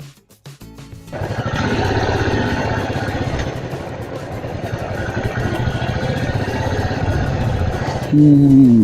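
Background music fades out at the start. About a second in, a motorcycle engine starts to be heard running steadily as the bike is ridden, with a fast, even pulse from its firing.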